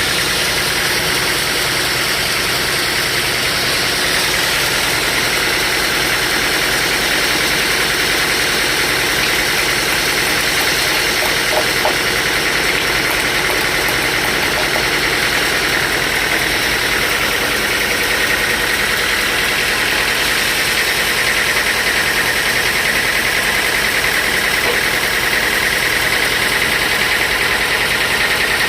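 Sawmill saw running steadily through timber, a continuous mechanical hiss with a high whine that grows a little stronger past halfway.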